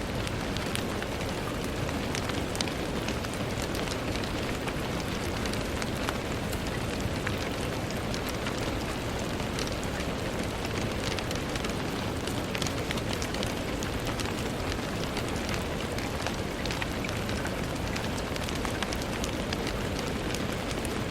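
Steady rain, with a continuous low hiss and many small scattered drop ticks on a hard surface.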